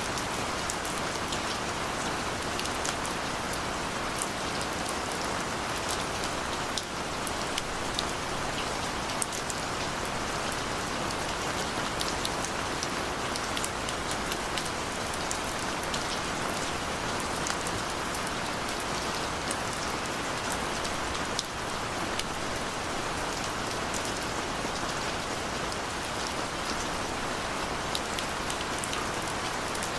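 Steady rain falling, an even hiss with many small drops ticking.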